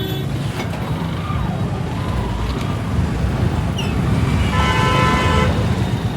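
Steady low rumble of wind and road noise from a scooter riding in city traffic, with a vehicle horn honking for about a second near the end.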